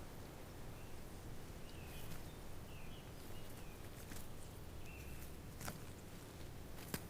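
Faint forest ambience: a few short, soft bird chirps and scattered light clicks and rustles over a low background rumble.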